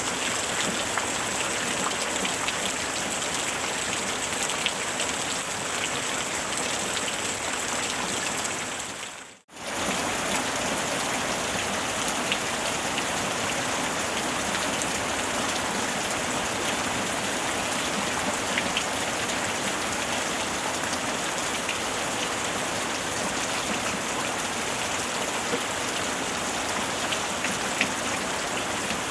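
Steady rain falling, an even hiss with fine scattered drop ticks. About nine seconds in it fades briefly to near silence and comes straight back.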